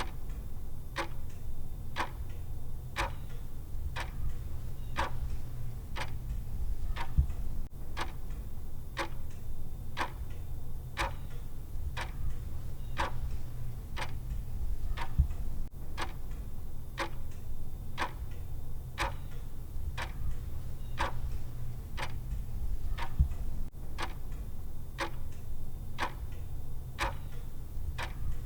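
Clock-style timer tick sound, an even tick about twice a second, over a steady low hum.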